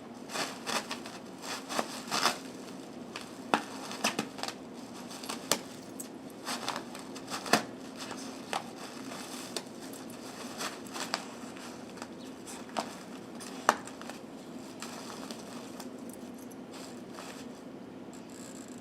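Bubble wrap crinkling and popping as a puppy plays with it: irregular sharp pops and snaps, frequent through the first fourteen seconds, then thinning to faint rustling.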